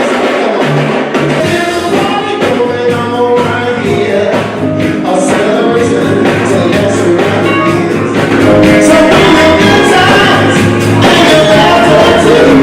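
A live band playing a song with a singer over a steady bass line; the music gets louder about eight seconds in.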